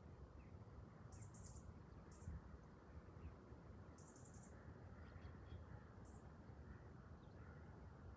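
Faint outdoor quiet with a low background rumble, and small birds giving short, high chirps in scattered clusters: about a second in, again around four seconds, and near six seconds.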